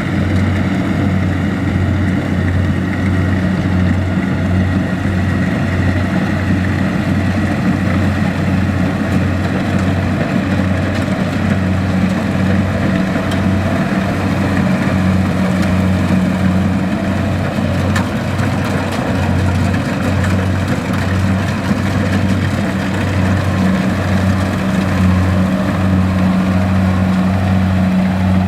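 Kubota DC-70 combine harvester's diesel engine running steadily under load, a loud low hum with a regular pulsing throb.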